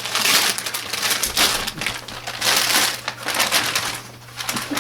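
Wrapping paper crinkling and tearing in about four rough bursts as a dog rips open a wrapped rawhide bone.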